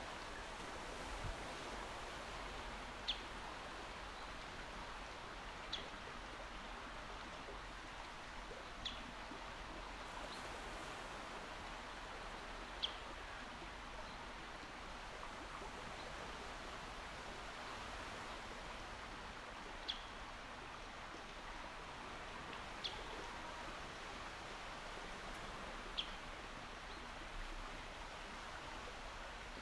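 Calm sea with gentle waves washing, a steady soft hiss of surf. A bird gives a short high chirp every few seconds, about eight times.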